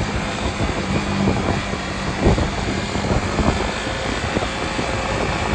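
BMW G310RR single-cylinder engine running steadily under way, mixed with heavy wind rush on the microphone and a few brief thumps.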